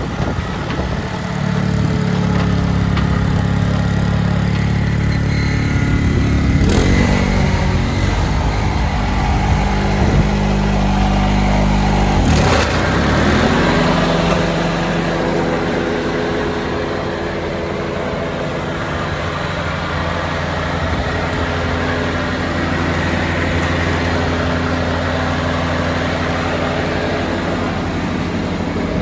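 Honda lawn tractor engine running, its speed dipping and coming back up twice, around a quarter and just under halfway through, then settling to steady running.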